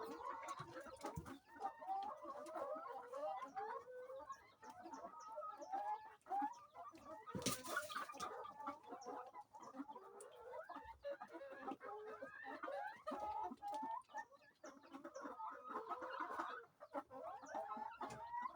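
A flock of laying hens clucking, many birds calling over one another without a break. About halfway through there is a brief rush of noise.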